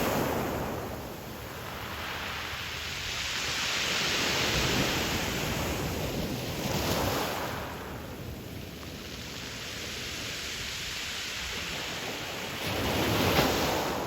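Sea waves breaking and washing up a pebble beach, the surf swelling and easing several times, with the loudest surge near the end.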